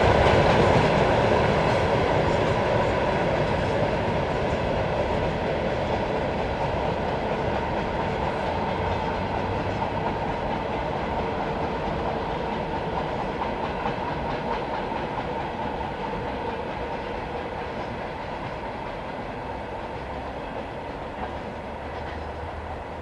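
A train rolling along the rails with wheel-on-rail rumble, growing steadily fainter as it moves away.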